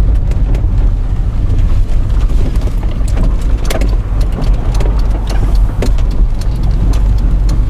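Opel Kadett D (Astra Mk1) 1.6S automatic estate driving on a wet, slushy road: a steady low engine and road rumble, with scattered light ticks over it.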